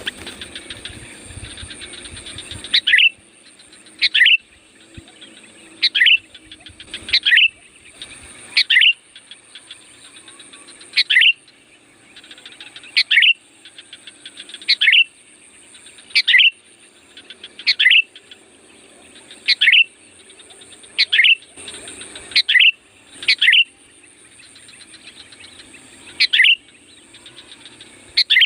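Sooty-headed bulbul (kutilang) calling: a short, sharp call repeated over and over, about every second and a half, the kind of call played to lure wild bulbuls. A steady high insect buzz runs underneath.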